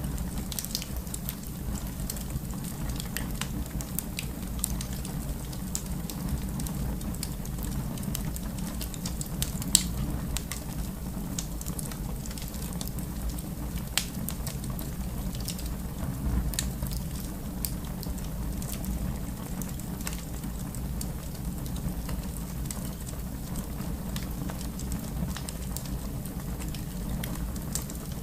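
Wood fire crackling in a fireplace: a steady low rumble of flames with scattered pops and snaps, two of them louder, at about ten and fourteen seconds in.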